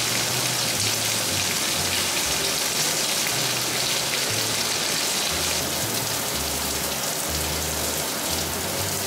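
Chicken pieces, and then prawns, searing in hot oil in a frying pan: a steady, dense sizzling hiss.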